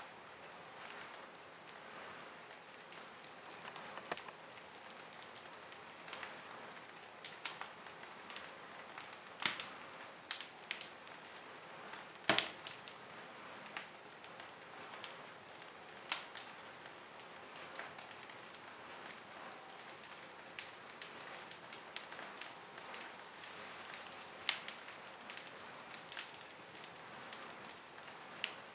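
Wood fire burning in a fireplace, crackling and popping irregularly over a steady soft hiss, with a few louder pops.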